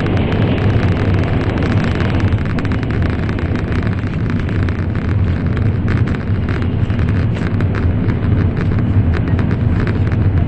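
Cabin running noise of an N700 series Shinkansen at speed: a steady low rumble with a hiss and many small clicks and rattles. It is louder and brighter at first inside a tunnel and eases a little a few seconds in as the train comes out into the open.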